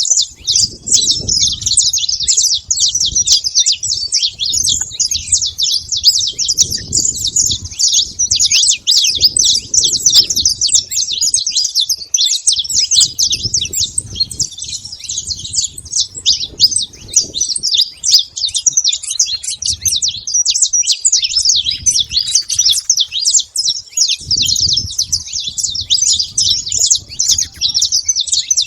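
Saffron finch singing: a continuous stream of rapid, high chirping notes, with low rumbling patches coming and going underneath.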